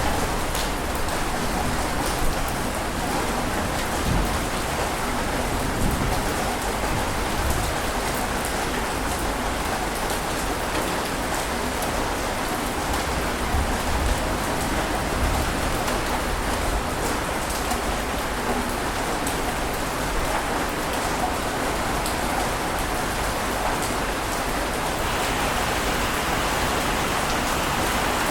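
Steady rushing water noise, even and unbroken, with a low rumble right at the start; its tone turns slightly brighter near the end.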